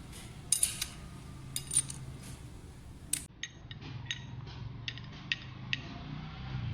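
Light metallic clicks and clinks of a wrench and a brake hose bolt with its copper washers being handled as the bolt is taken out of a motorcycle brake caliper. About a dozen sharp ticks come at uneven intervals.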